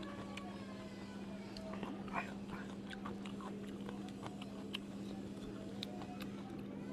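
Quiet close-miked eating sounds: chewing and lip smacks with many small scattered clicks, over a steady low hum.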